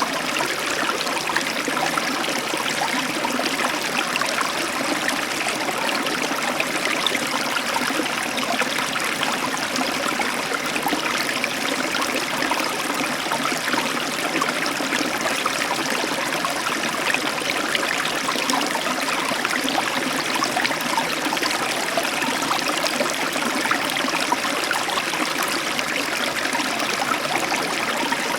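Heavy tropical downpour: a steady, dense hiss of rain with fine pattering, heard through an open balcony door.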